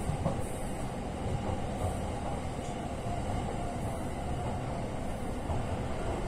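Steady running noise of a JR East Utsunomiya Line commuter train heard from inside the car: a low, even rumble of wheels on rails at speed.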